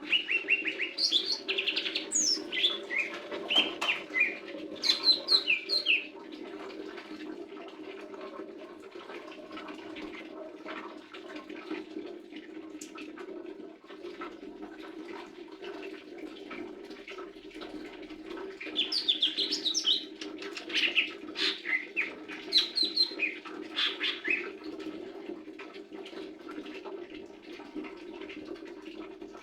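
Lesser green leafbird singing in quick runs of bright chirps and whistles, in two spells: one from the start lasting about six seconds, and another about eighteen seconds in. A steady low hum runs underneath.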